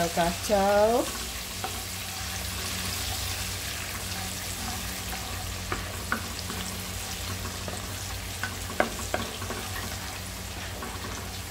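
Chopped garlic and bird's eye chillies sizzling steadily in butter and oil in a non-stick wok, with a wooden spatula stirring them and now and then clicking against the pan.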